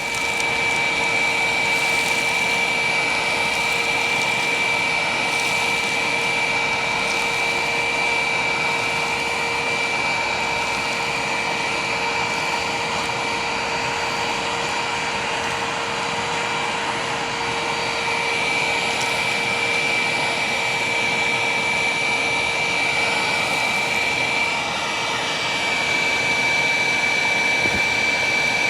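Hoover WindTunnel Plus self-propelled upright vacuum running steadily with a high motor whine while it picks up a big mess of debris.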